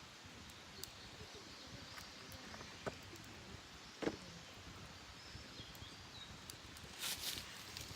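Faint wood campfire crackling, with a few sharp pops, the loudest about four seconds in, and a short rustling burst near the end. Wild birds sing in the background.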